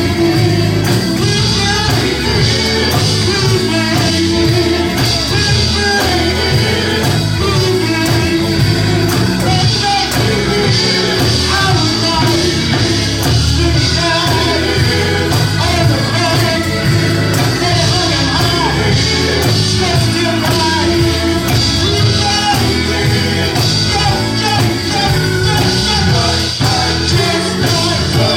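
Church worship band playing with singing, drums, bass and guitar at a steady beat.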